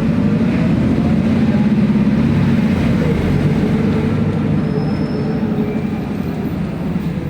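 City bus driving, heard from inside the cabin: a steady engine and drivetrain rumble with road noise and a thin whine held above it, a little louder in the first half.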